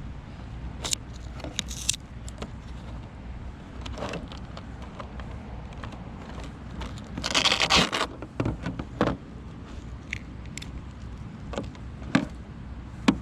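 Handling noises: scattered clicks, knocks and scrapes as the RC swamp boat is opened and its lipo battery pack handled. There is one longer rasping rustle about seven seconds in.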